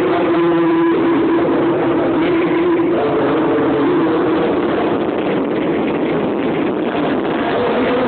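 Loud amplified music from a PA sound system, dense and distorted, with a held note that steps up in pitch about three seconds in.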